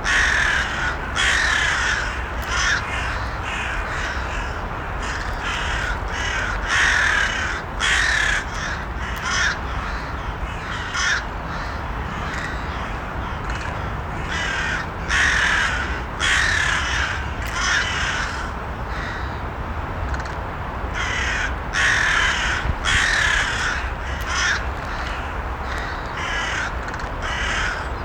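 Crows cawing repeatedly, with short harsh calls coming every second or so, some overlapping, over a steady low background noise.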